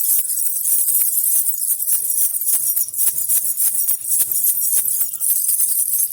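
Baby rattle (jhunjhuna) with small bells shaken steadily, giving a dense, continuous bright jingling of rapid clinks.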